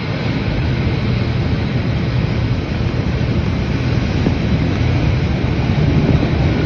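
Loud, steady rushing noise of storm wind and rough sea, heaviest in the low end, starting abruptly.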